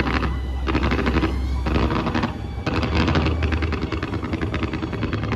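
Fireworks crackling in rapid runs of sharp pops, several clusters in a row that grow denser in the last two seconds, over show music.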